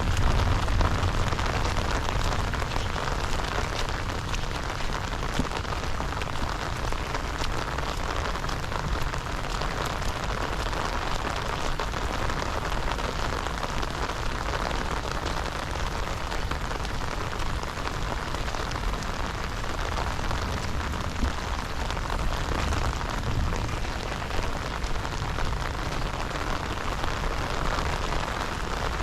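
Heavy rain falling steadily: a dense, even hiss with many small drop ticks and a low rumble underneath.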